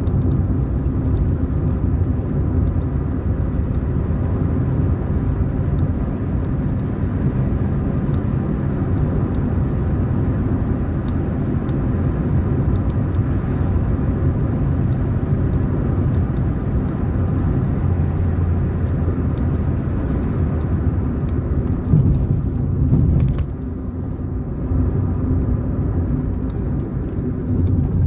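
Car driving along: steady low rumble of engine and tyres on the road, with a short louder surge about two-thirds of the way through followed by a briefly quieter stretch.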